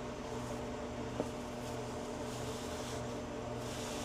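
Steady hum of a running appliance or machine motor, with one light click about a second in.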